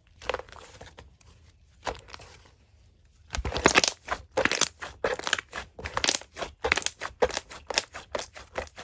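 Slime being squeezed and pressed by hand, giving crackly, crunchy squishes: two separate ones at first, then from about three seconds in a close run of them, roughly two a second.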